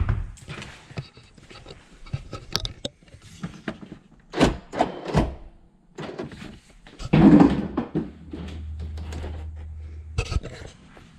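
Convertible soft top of a Nissan 300ZX being unlatched and lowered: a string of clicks and knocks, a louder clatter about seven seconds in, a steady low hum for about two seconds, then a final thunk.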